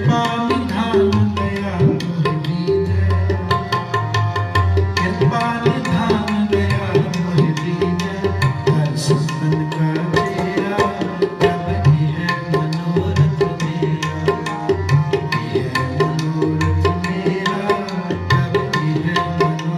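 Tabla playing a fast, dense rhythm under the steady held notes of a harmonium: an instrumental interlude between sung lines of Sikh shabad kirtan.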